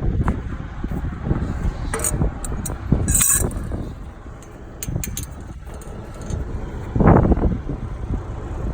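Wind buffeting the microphone, an uneven low rumble with a surge about seven seconds in, broken by a few light clicks and knocks.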